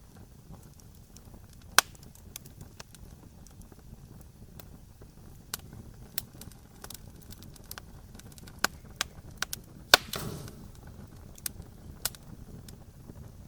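Wood campfire crackling: sharp, irregular pops over a low, steady rumble of flame. The loudest pop comes about ten seconds in and is followed by a brief hiss.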